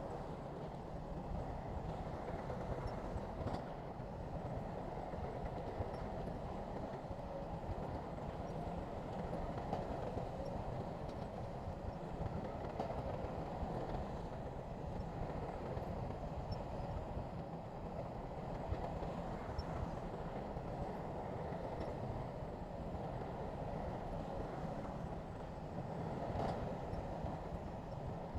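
Heavy earthmoving machinery, diesel engine running in a steady rumble.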